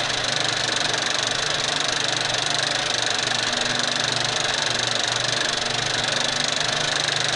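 Car engine idling steadily, with a fast, even pulse.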